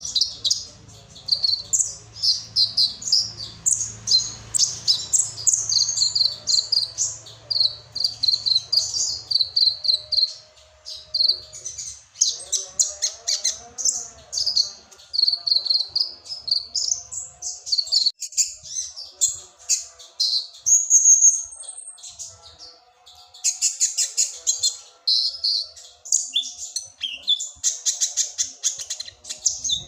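A kolibri ninja sunbird singing a long, rapid, high-pitched twittering song, its trained-in cricket-like imitations giving fast buzzy trills, most dense near the end.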